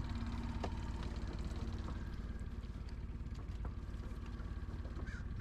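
Small boat motor running steadily at trolling speed, a low, even pulsing drone.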